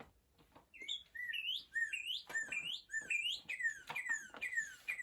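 Northern cardinal singing: a run of rising whistled notes, then a series of down-slurred whistles near the end.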